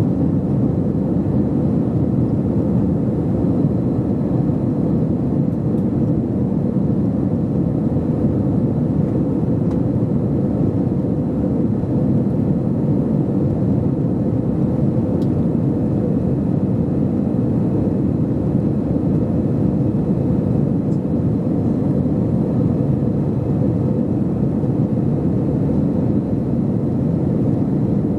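Steady cabin noise of an Airbus A321-211 in flight: an even, low rush of engine and airflow noise from its CFM56 turbofans, heard from inside the passenger cabin, unchanging throughout.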